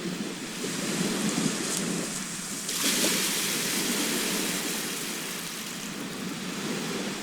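Sea waves washing on a shore, with a steady low rumble of surf. About three seconds in, a wave breaks with a sudden rush of hiss that slowly dies away.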